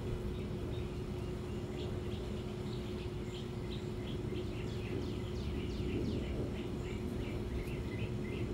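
Outdoor ambience: birds chirping in a run of short, quick falling notes, over a steady low hum and a low rumble of background noise.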